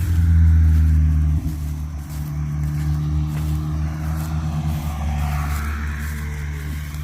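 A motor vehicle's engine running close by, its note steady, then swelling and rising briefly between about five and six and a half seconds in, as if passing.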